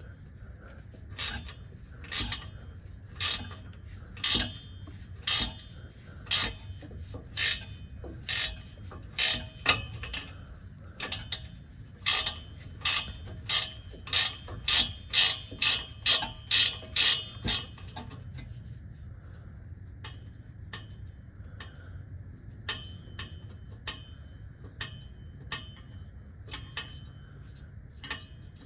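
Socket ratchet wrench clicking on its backstrokes, loosening the PB Blaster-soaked 13 mm fasteners that hold the oxygen sensor to the exhaust header. Sharp clicks come about once a second, faster for a few seconds past the middle, then fainter and sparser near the end.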